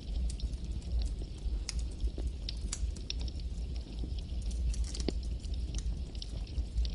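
Campfire burning with a steady low rumble of flames and frequent sharp, irregular crackles and pops from the burning wood.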